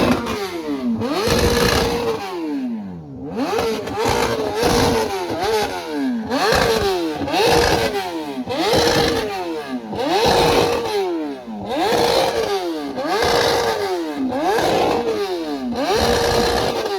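Sport motorcycle engine revved hard over and over while standing, about a dozen revs: each climbs quickly, holds briefly at the same peak, then falls back.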